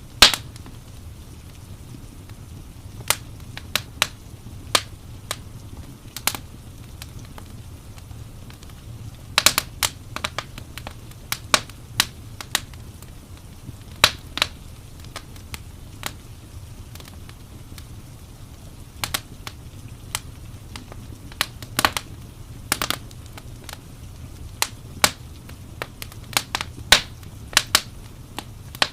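Wood fire crackling in a fireplace: irregular sharp pops and snaps, sometimes in quick clusters, over a steady low rumble.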